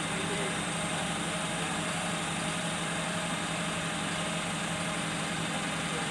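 Isuzu crane truck's diesel engine idling steadily.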